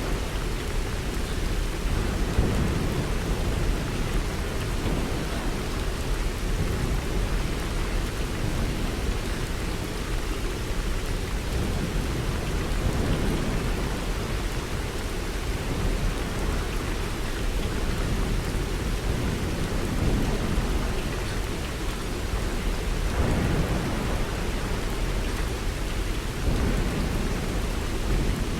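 Steady rain with a deep, low rumble that swells and fades every few seconds, like rolling thunder.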